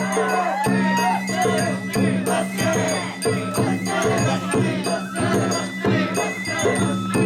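Japanese festival hayashi music: drums struck in a steady rhythm, with a high flute line and a rattling percussive jingle over it.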